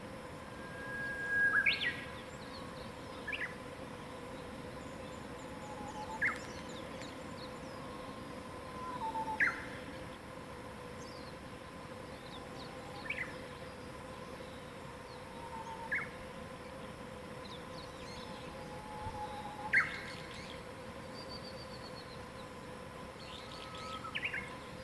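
Wild birds singing in a quiet mountain morning, with short, sharp, high calls sweeping downward, repeated about every three seconds, and a few lower whistled notes between them.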